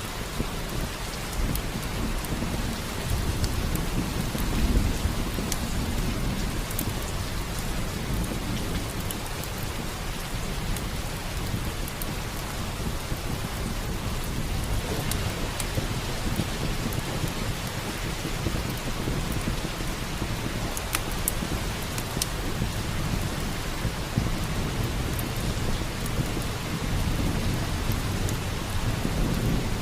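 Steady heavy rain, with low rolling thunder rumbles swelling a few seconds in and again near the end. Scattered sharp crackles from a wood fire in a fireplace sound over the rain.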